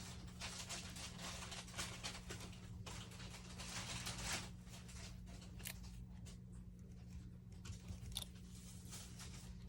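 Faint rustling and crackling handling noise with a few small clicks near the end, over a steady low electrical hum.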